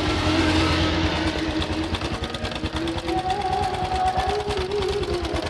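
Honda Supra X 125's single-cylinder four-stroke engine running at idle with a rough, fast, even mechanical clatter from the cylinder block and head area, a noise the mechanic is tracking down before replacing any parts.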